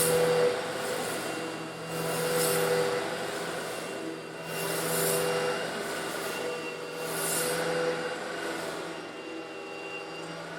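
Eureka vacuum cleaner motor running steadily while sucking up coarse stone granules, with a surge of high rattling hiss about every two and a half seconds as the granules are drawn in.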